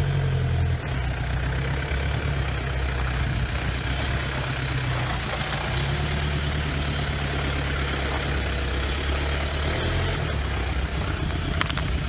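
Daihatsu F77 pickup's engine idling steadily, with an even, unchanging note.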